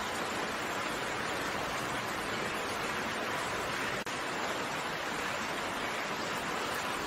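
Steady, even rain hiss, with a brief dropout about four seconds in.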